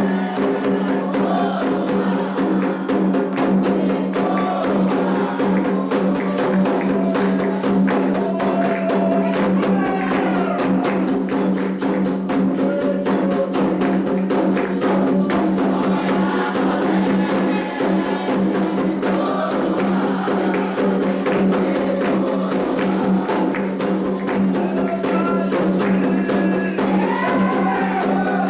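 Candomblé atabaque drumming playing the rum for Iansã: a fast, dense run of hand-drum strokes with a steady low drone underneath.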